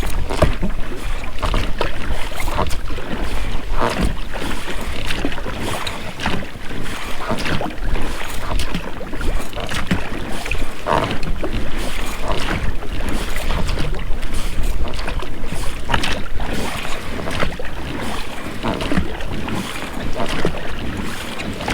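Oars rowing an inflatable boat: water splashing with each stroke and the rubber rowlocks creaking and knocking, in a steady repeating rhythm, with wind on the microphone.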